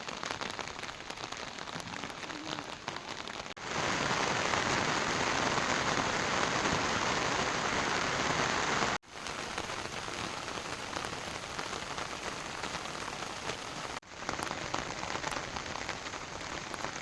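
Heavy rain falling, a steady hiss of drops. The sound changes abruptly three times: it is loudest from about four to nine seconds in, then drops back.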